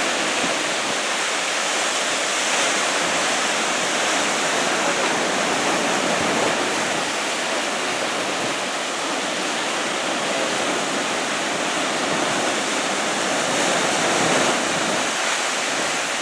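Heavy ocean surf from a large typhoon swell breaking along the shore: a continuous rush of white water, swelling slightly louder about six and fourteen seconds in.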